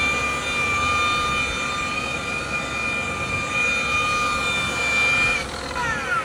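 Electric rotary buffer with a wool pad running at speed in a steady whine, then switched off about five seconds in, its pitch falling as the motor spins down.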